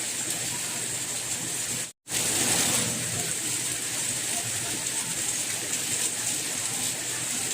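Steady, even rain. It cuts out to silence for a moment about two seconds in, then resumes.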